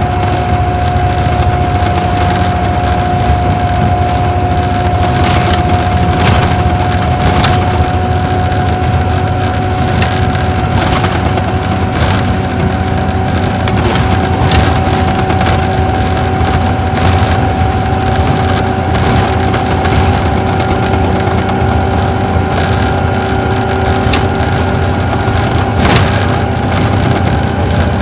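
Isuzu Gala coach's V-type diesel engine running under way, heard from inside the cabin: a steady low rumble with road noise and a steady whine that creeps slightly up in pitch, plus scattered light knocks and rattles.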